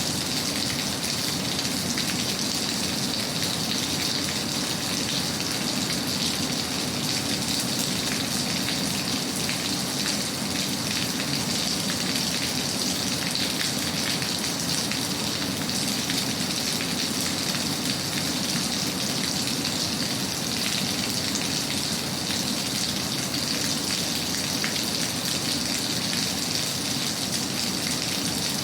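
Steady rain falling: an even, unbroken hiss with faint patter of individual drops.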